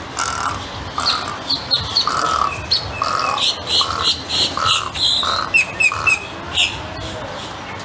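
Birds calling: a run of short, harsh calls repeated about every half second, with quicker high chirps mixed in through the middle.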